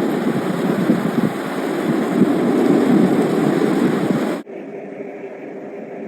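Storm wind buffeting the microphone as a loud, steady roar during a snowstorm. It cuts off abruptly about four seconds in, giving way to a quieter steady hum.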